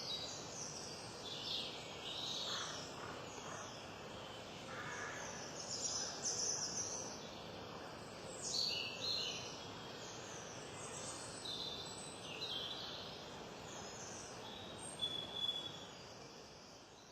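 Small garden songbirds chirping and twittering in short repeated phrases, over a steady background hiss of outdoor noise.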